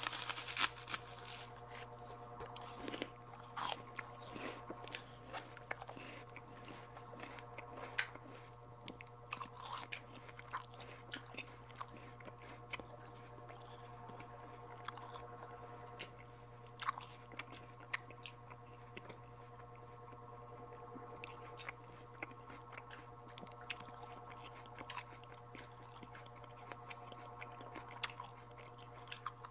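Close-up eating of santol fruit: irregular wet mouth clicks, bites and chewing sounds, over a steady low hum.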